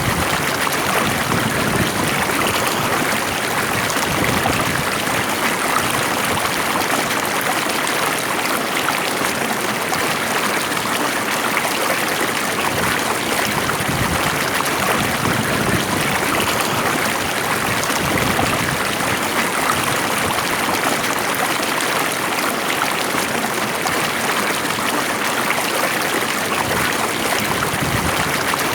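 A stream of water flowing steadily with a continuous rushing and trickling sound.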